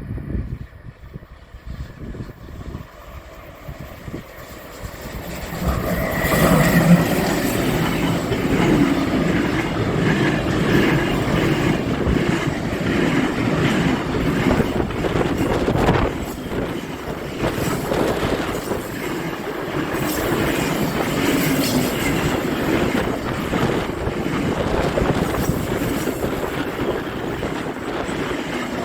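A train approaching and then passing close by, growing loud about five to six seconds in. A long, steady run of rail rumble and wheel noise follows, with rail-joint clatter.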